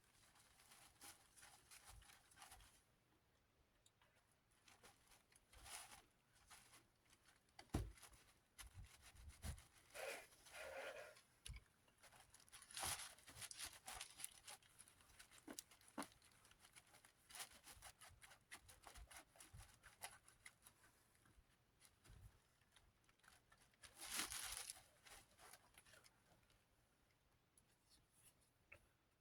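Faint, intermittent rubbing and rustling of cleaning wipes worked over the plastic blades of a desk fan, with a few louder rustles.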